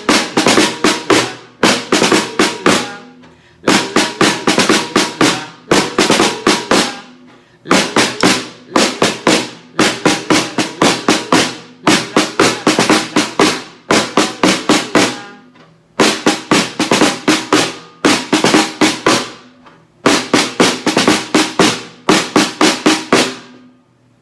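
Tarola (snare drum) played in a repeating rhythm, beating out the rhythm of a children's song. Quick runs of sharp strikes come in short phrases, with a brief pause every few seconds.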